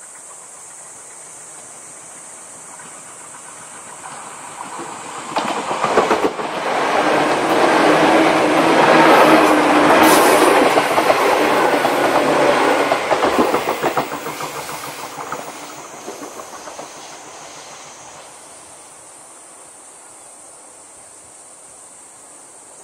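Izukyu Resort 21 'Kinme' electric train approaching and passing close by, its wheels clicking over the rail joints. It builds over a few seconds, is loudest in the middle, then fades away. A steady high hiss runs underneath throughout.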